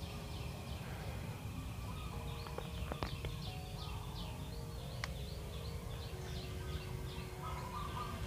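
Faint small-bird chirps, a short falling note repeated about twice a second, over a low steady background hum.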